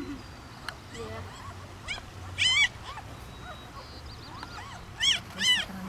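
Newborn German Shepherd puppies squealing and whimpering. A loud, high squeal comes about two and a half seconds in and two more near the end, with softer short whimpers in between.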